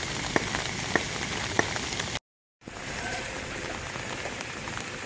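Steady rain falling on a wet road, with a few sharp close drip taps in the first two seconds. The sound drops out for a moment about two seconds in, then the rain carries on.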